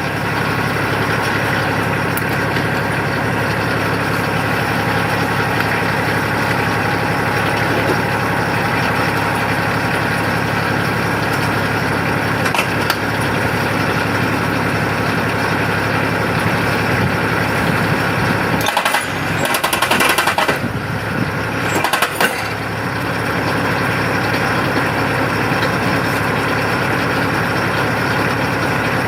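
Kubota L3010 tractor's diesel engine running steadily, with a few seconds of knocks and a break in the engine sound about two-thirds of the way through.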